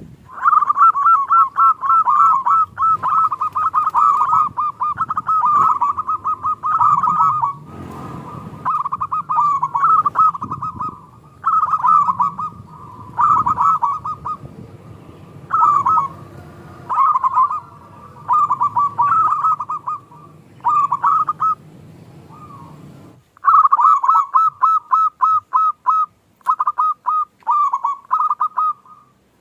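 Zebra dove (perkutut) cooing: phrase after phrase of quick, rolling notes, with short pauses between phrases.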